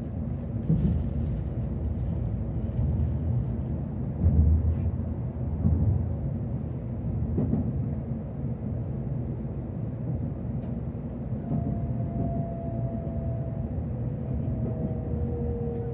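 Cabin running noise of a Tokaido Shinkansen train slowing into a station: a steady low rumble from the wheels and track, with a couple of low bumps about four and six seconds in. From about twelve seconds in, a faint whine joins and falls slowly in pitch as the train decelerates.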